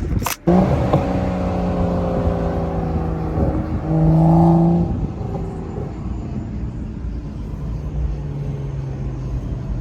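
Car engine running while driving, its pitch slowly falling over several seconds, with a louder swell about four seconds in and a steadier low hum near the end. The sound cuts out briefly about half a second in.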